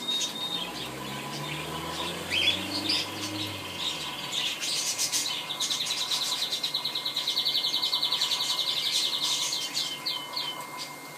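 Small birds chirping, with a long, fast trill in the middle and a few quick falling chirps near the end.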